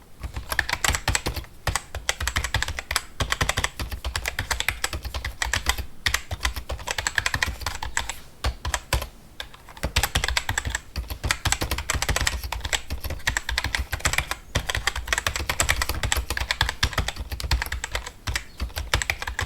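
Fast typing on a computer keyboard: a dense, continuous run of key clicks with a few brief pauses.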